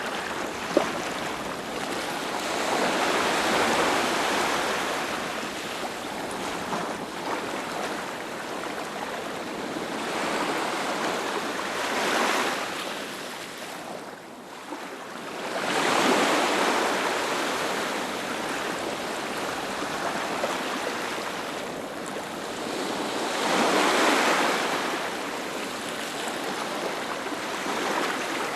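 Ocean surf washing onto a beach: a steady hiss of water that swells as each wave breaks and rushes in, about four surges over the stretch, several seconds apart. A brief click about a second in.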